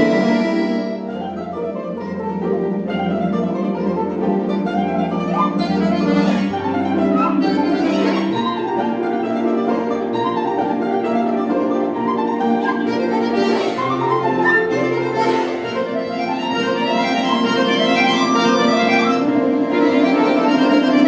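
Folk-instrument orchestra playing a lively passage of quick, ringing string notes over a pulsing bass line.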